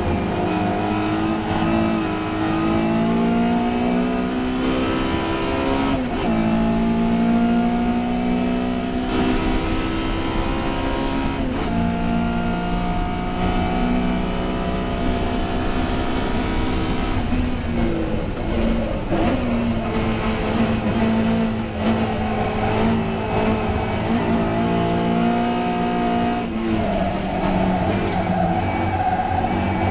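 Touring race car engine at racing speed, pulling hard through the gears: its pitch climbs, then drops sharply at upshifts about 6 and 12 seconds in. Later it falls as the car slows, then climbs again on acceleration.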